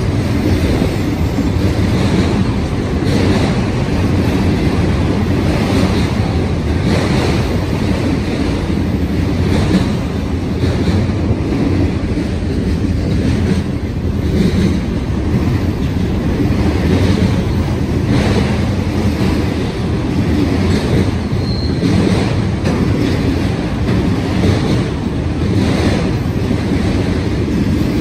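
A long freight train rolling past: a steady, loud rumble of the cars on the rails, with wheel clacks recurring about once a second.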